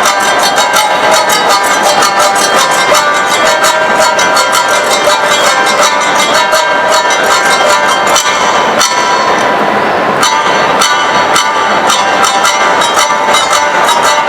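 Awa odori festival music: kane hand gongs clanging in a fast, even two-beat rhythm over drums, with held melody notes above. The rhythm drives the dancers' procession.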